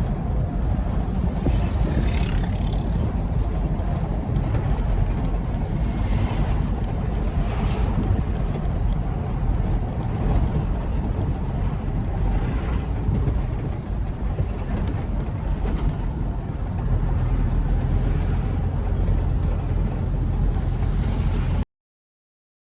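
Truck on the move: a steady, heavy low rumble, with short higher-pitched sounds coming and going every few seconds. It cuts off abruptly near the end.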